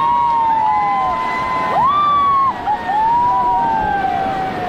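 Several rafters whooping together in long, overlapping held cries that rise and fall, over the rush of river water.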